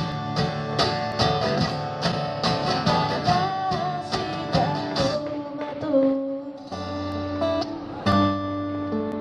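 Live guitar playing an instrumental passage of a song: quick plucked and strummed strokes, then held chords from about two-thirds of the way through.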